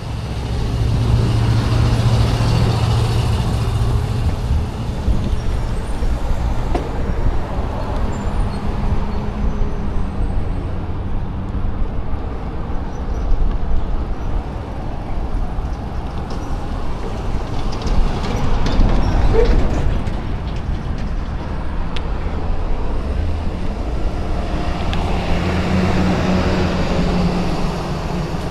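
Road traffic during a bicycle ride: a steady low rumble, with motor vehicles passing about three times, near the start, past the middle and near the end.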